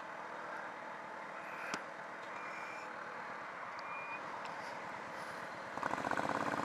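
Yamaha FZ6 sport bike's inline-four engine and riding noise, heard steady and fairly quiet. About six seconds in, the engine note grows louder, with its rapid firing pulses coming through.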